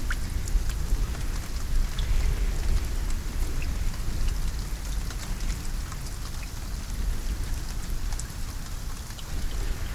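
Steady rainfall, individual drops ticking sharply over an even hiss, with a strong low rumble underneath.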